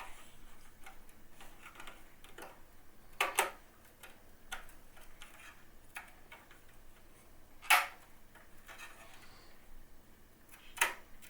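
Metal motherboard I/O shield being pressed into a PC case's rear opening: scattered light clicks and a few sharper metallic snaps as it is worked into place, the loudest about two-thirds of the way through.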